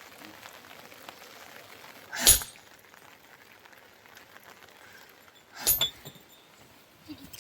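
Two sharp clinks of hard objects striking, the second a quick double, each with a brief high ring, over a faint steady hiss.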